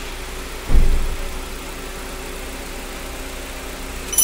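A car engine idling steadily. A dull low thump comes about a second in, and a short high-pitched ring near the end.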